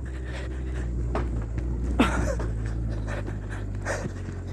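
A person panting hard, with a breath about every second, over the steady low hum of a car engine running.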